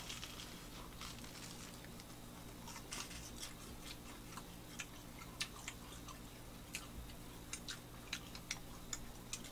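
Two people chewing and biting buttered toast sandwiches with ham, egg and shredded cabbage, close to the microphone: faint, irregular crisp crunches and wet clicks over a steady low hum.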